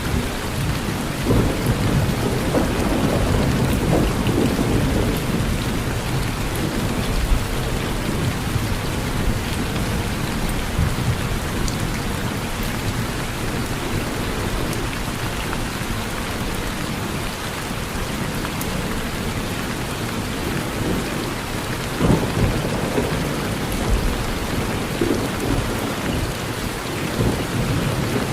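Steady rain falling, with low rolling thunder rumbling under it, swelling over the first few seconds and again briefly a little after the twenty-second mark.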